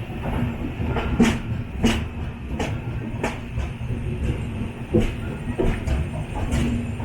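Express passenger coach rolling along the track: a steady low rumble with sharp wheel clacks over rail joints, about one every half second to a second.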